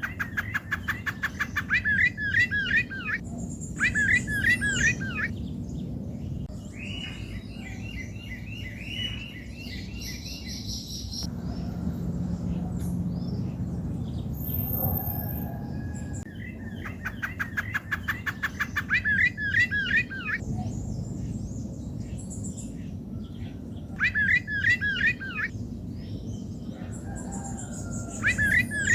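Rufous-bellied thrush (sabiá-laranjeira) singing: loud phrases of quickly repeated notes, each lasting a second or a few, with pauses of several seconds between them. A steady low hum runs underneath.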